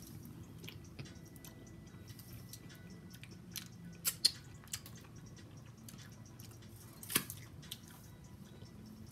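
Close-up mouth sounds of someone eating a mouthful of deshelled seafood boil in butter sauce: chewing and small wet clicks. There are a few sharper, louder clicks about four seconds in, as she licks sauce off her fingers, and another about seven seconds in.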